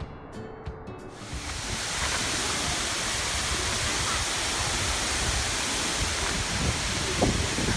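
Background music fades out over the first second or so, giving way to the steady rush of a waterfall. A couple of low bumps come near the end.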